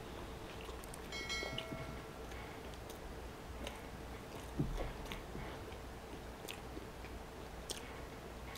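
Close-miked chewing of a bite of fried chicken sandwich on bread, with soft wet mouth clicks and small crunches, over a faint steady hum.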